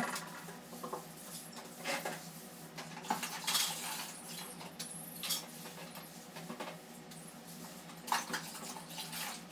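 A parrot cracking and shelling whole peanuts with its beak: irregular sharp clicks and cracks, a few seconds apart.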